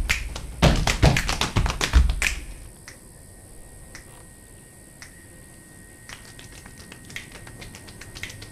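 Percussion soundtrack of sharp claps and taps in a quick, uneven rhythm, which stops about two and a half seconds in. After it come quieter, sparse clicks and light taps over a faint steady high tone.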